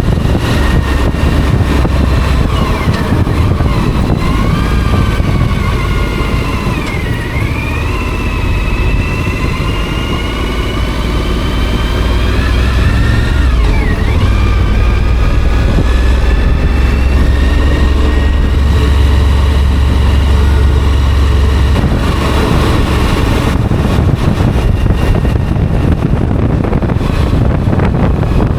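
Motorcycle engine running under way with heavy wind rush. The engine note rises and falls, dipping and climbing again twice in the first half.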